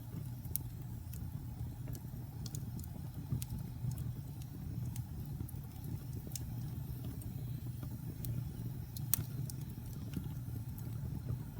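Wood fire burning in a fireplace: a steady low rumble of flames with scattered small crackles and pops, one sharper pop about nine seconds in.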